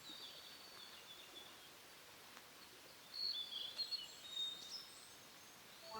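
Small birds chirping and singing over a faint outdoor hiss: a few high calls at the start, then a louder run of chirps and trills from about three to nearly five seconds in.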